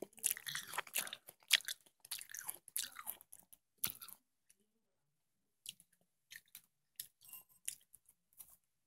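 Close-miked crunching and chewing of watermelon: a dense run of crisp, juicy crunches for about four seconds, a short pause, then softer, wetter chewing clicks.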